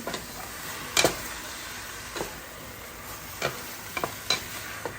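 Marinated chicken frying in hot oil in a pan, a steady sizzle, with a utensil knocking against the pan about six times while it is stirred, the loudest knock about a second in.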